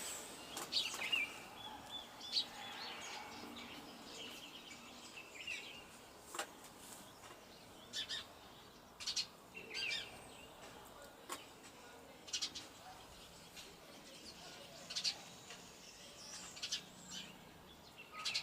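Songbirds chirping: short, high calls every second or so, with a few brief warbled phrases, over faint outdoor background noise.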